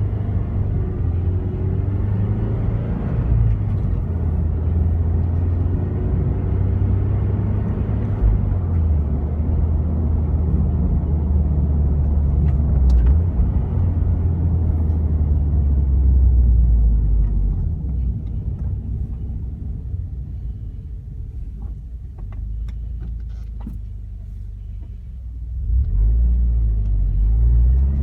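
Toyota 86's 2.0-litre flat-four engine and Kakimoto Class KR quad-tip aftermarket exhaust heard from inside the cabin while driving: a very deep drone that rises and falls with engine speed. It eases off about two-thirds of the way through and picks up again near the end as the car accelerates.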